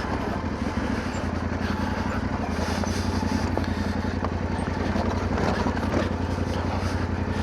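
Yamaha Ténéré 700's parallel-twin engine running steadily as the motorcycle rides down a rough track.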